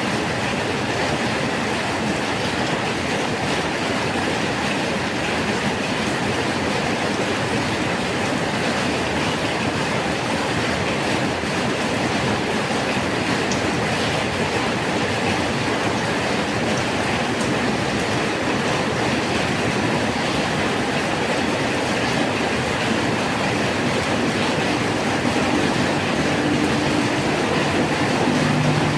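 Steady rain falling, an even hiss with no breaks; a low engine-like hum comes in near the end.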